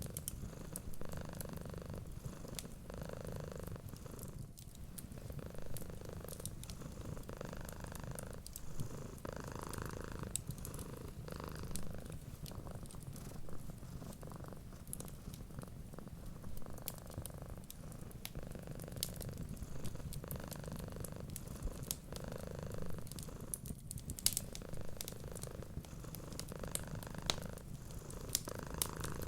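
Cat purring steadily, swelling and fading with each breath, with frequent small crackles and pops from a wood fire.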